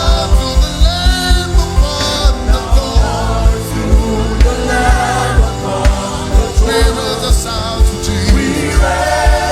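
Live gospel worship music: singing over a band with bass and a fast, steady drum beat.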